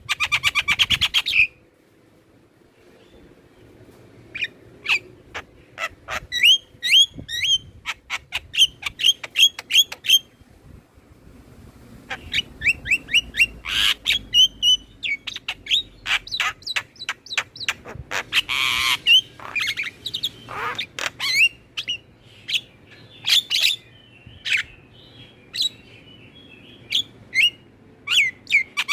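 Javan mynas and other starlings calling: runs of quick, sharp repeated chirps with short pauses between them, and a harsh rasping call about two-thirds of the way through. This is the kind of lively starling chatter played to prompt captive mynas to sing.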